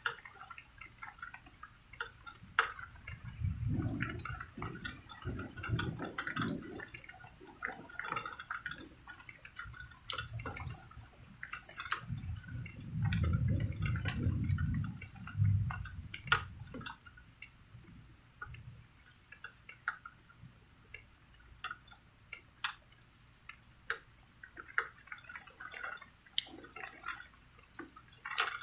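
Rain at night, with many irregular drips and splashes. Two low rumbles of thunder swell and fade, a few seconds in and again about halfway.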